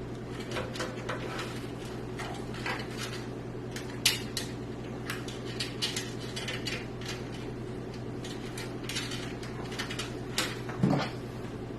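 Hands handling cables and plastic PC-case parts while routing fan wires through the case: a run of small clicks, taps and rustles, a sharper knock about four seconds in and a short scrape near the end, over a steady low hum.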